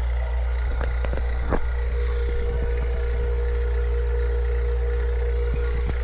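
Refrigeration vacuum pump running steadily, evacuating the heat pump's refrigerant lines after the reversing valve replacement. It is a constant low hum with a steady tone above it, and a few light clicks.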